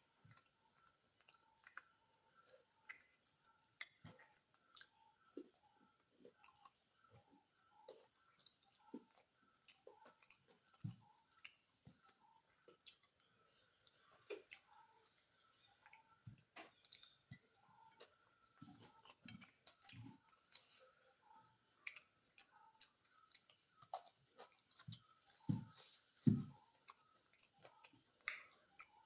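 Close-miked chewing of beef biryani: irregular wet mouth clicks and soft smacks, with a faint steady hum beneath.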